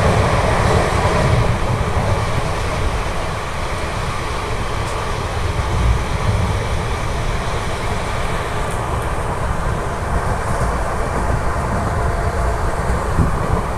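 Indian Railways express train running at speed, heard from an open coach window: a steady, loud noise of wheels on the rails mixed with rushing wind.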